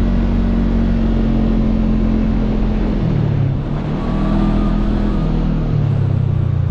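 Side-by-side UTV engine running under way, its engine speed dipping about three seconds in, picking back up, and dropping again near the end.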